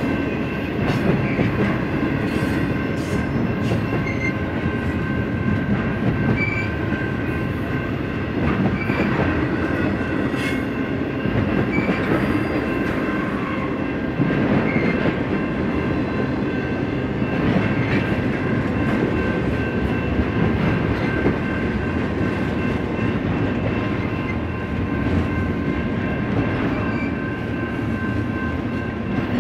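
Freight train cars rolling past on the rails: a steady rumble of wheels with occasional clicks, and a thin steady high ring over it.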